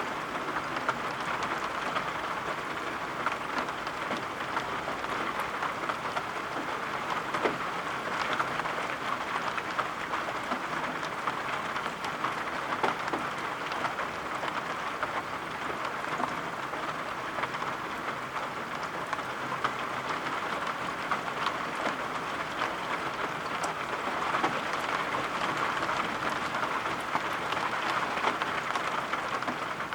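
Steady rain: an even hiss of falling rain with many small drop ticks, unchanging throughout.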